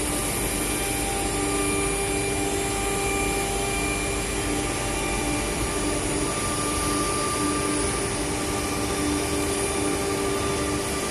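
CNC router running steadily: a constant machine whine made of several steady tones over an even rush of noise.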